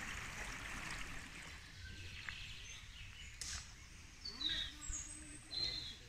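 Shallow stream running softly over stones, easing off after the first couple of seconds, with a few short bird chirps in the latter half.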